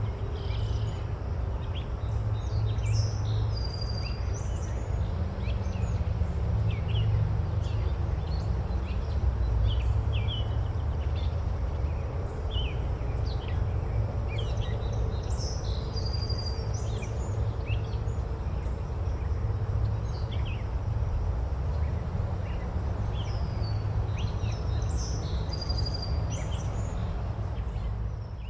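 Several small birds chirping and calling over a steady low rumble, with the same group of calls recurring about every eleven seconds.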